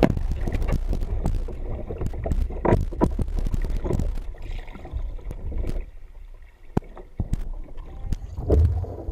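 Water splashing and sloshing around kayaks with irregular knocks, over a low rumble of wind on the microphone. The splashing is busiest in the first half, with a loud burst near the end.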